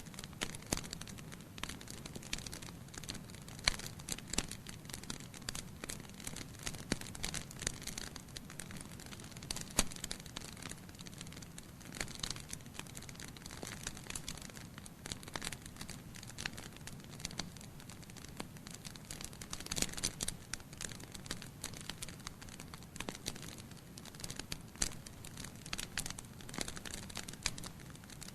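Wood fire of burning logs crackling, with irregular sharp pops over a steady low rumble of the flames.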